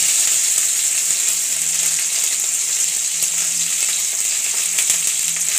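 Shallots, crushed garlic, curry leaves and cumin seeds sizzling steadily in hot oil in a pan, an even high hiss.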